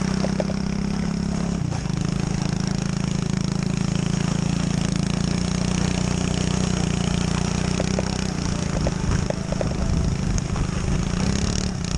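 Small pit bike engine running at a steady, even pitch, with a short dip about two seconds in and a slight rise near the end.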